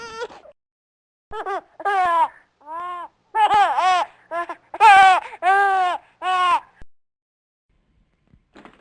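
Infant crying in a string of short cries, each bending up and down in pitch, about ten in five seconds, the loudest about halfway through.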